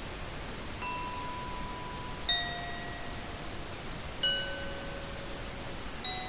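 Slow ambient soundscape: single bell-like chime notes struck four times, about every second and a half to two seconds, each at a different pitch and ringing out before the next, over a steady hiss.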